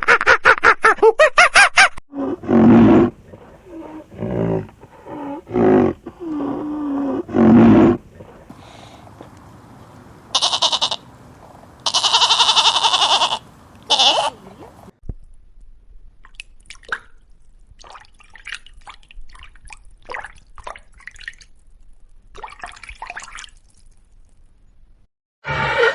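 Farm animals calling one after another. A fast pulsed call comes first, then several low calls in the first eight seconds. Loud, harsh, high calls follow around the middle, then only faint scattered sounds until a loud call at the very end.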